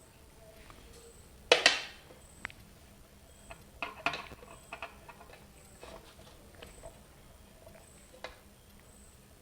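Scattered light taps and clicks of kitchen utensils being handled, with one louder clink that rings briefly about a second and a half in.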